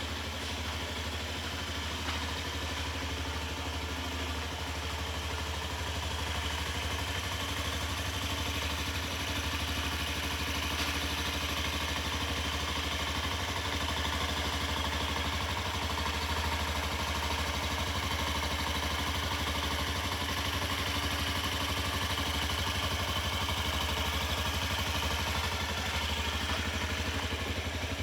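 Honda Zoomer scooter's 49 cc four-stroke single-cylinder engine idling steadily.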